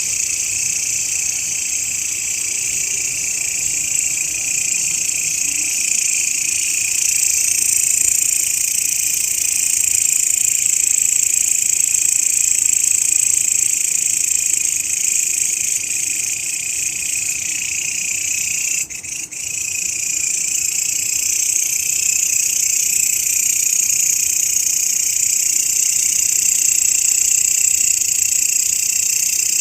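Grasshopper (belalang) stridulating in a continuous, high-pitched buzz, broken once, briefly, a little past the middle.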